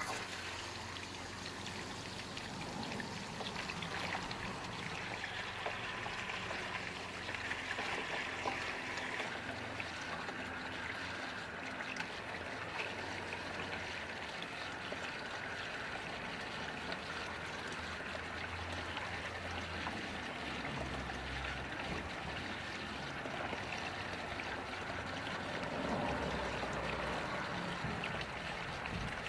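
Water from a garden hose running down guttering and pouring into a recycling box, a steady trickling flow simulating rain.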